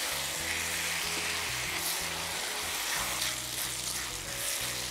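Basmati rice and minced meat frying together in a hot non-stick pan, sizzling steadily as a silicone spatula turns them over, with background music underneath. The rice is being toasted in the spiced meat mixture before the broth goes in.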